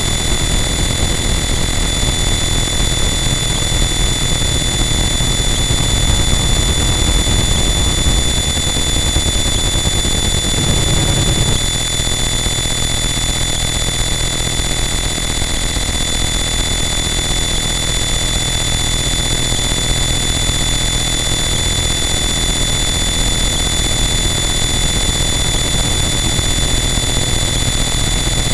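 Harsh noise wall: a dense, unchanging wall of loud static with steady high whines held over it and a heavy low rumble underneath. The low rumble thins out about eleven seconds in.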